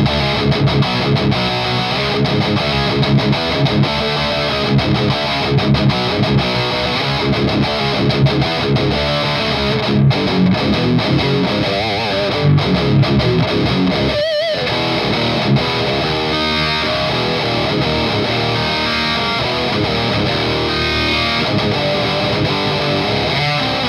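High-gain distorted electric guitar playing heavy, chugging rhythm riffs, with a wavering held note about fourteen seconds in and more ringing sustained notes after it.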